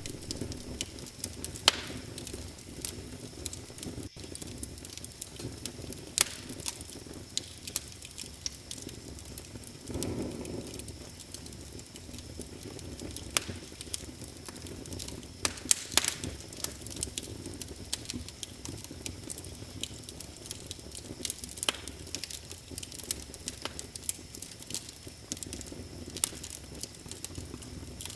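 Wood fire crackling in a fireplace: irregular sharp pops and snaps over a low, steady rush of flames, with a brief louder rush about ten seconds in.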